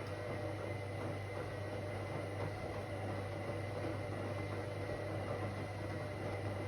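Whirlpool AWOC 8283 washing machine running steadily, a constant low hum with a faint high tone over it.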